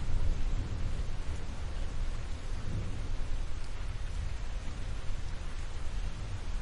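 Thunderstorm: steady rain with a continuous low rumble of thunder that swells and fades.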